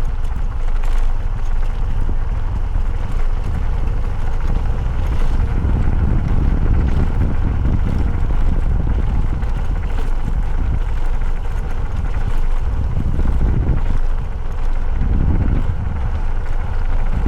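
Motorcycle on the move: a steady low rush of wind buffeting the microphone, with the running engine and road noise beneath it.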